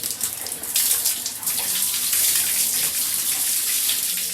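Water rushing and splashing in a loud steady hiss, growing louder about a second in.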